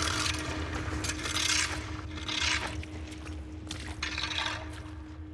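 Rough scraping strokes repeating about once a second over a low rumble, with a faint steady hum underneath.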